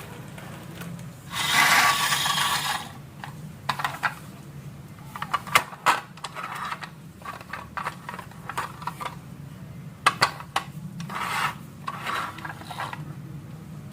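Marbles rolling and clattering down a wooden marble run: a rolling rush about a second in, then scattered clicks and knocks as marbles drop and strike the track.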